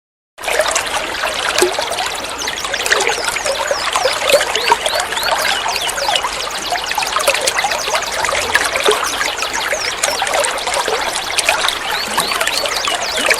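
Water trickling and gurgling steadily, with many quick, high bird chirps over it, as in a songbird masteran (training-song) recording.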